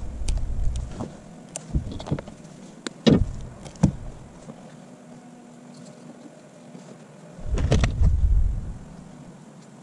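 Hand work on truck wiring: a scatter of sharp clicks and knocks from tools and wire in the first few seconds, with a low rumble at the start and again a couple of seconds before the end.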